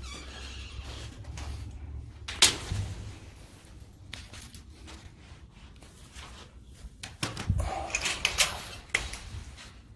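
A few sharp knocks and clicks over a low steady rumble: a loud single knock a couple of seconds in, and a cluster of knocks and rattles near the end.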